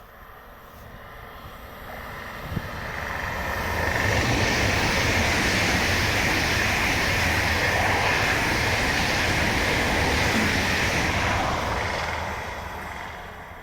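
A train passing at speed: the rumble and rushing noise swell over a couple of seconds, stay loud and steady for about seven seconds, then fade away near the end.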